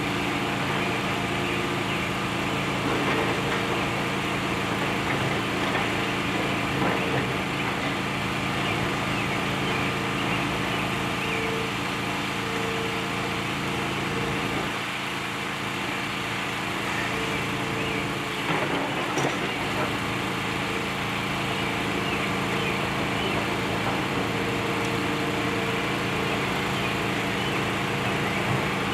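Excavator's diesel engine running steadily during building demolition, with a few knocks and scrapes of debris.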